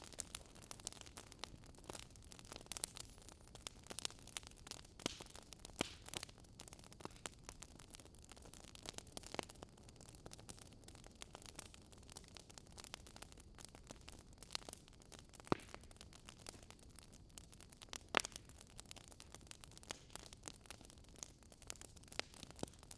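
Wood fire crackling: irregular small clicks and snaps over a soft hiss, with a few louder pops, one about two-thirds of the way in and another a little later.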